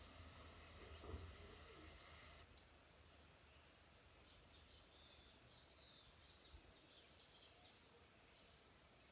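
Faint, scattered high chirps of small birds over quiet background hiss. A short, louder high call comes near the start of the second half, after the background hum drops away abruptly.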